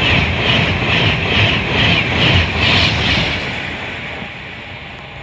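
Class 390 Pendolino electric train running through the station close by: a loud rush of wheel and air noise with a regular beat about twice a second as the bogies pass. It fades steadily from about three seconds in as the train draws away.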